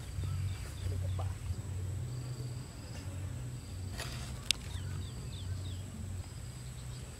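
Countryside ambience: groups of short falling chirps, such as small birds or insects make, over a steady high thin tone and a low rumble, with one sharp click about four and a half seconds in.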